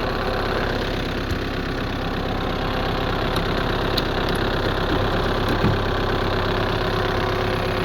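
Skoda Octavia 1.6 TDI four-cylinder diesel engine idling steadily, still warming up after a cold start at about −20 °C.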